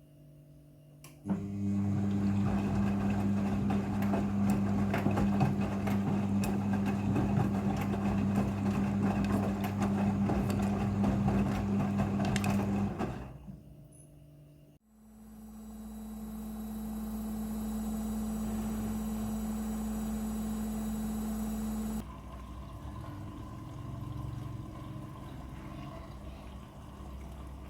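Midea front-loading washing machine running through its cycle. A steady low hum with a rushing noise over it starts about a second in and stops after about twelve seconds. After a brief break a second steady hum grows louder, then gives way near the end to a quieter, more uneven running sound.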